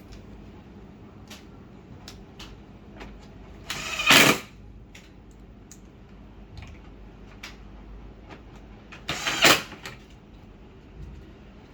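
Two short bursts of a power screwdriver driving screws, about five seconds apart, with light clicks and taps of parts being handled in between.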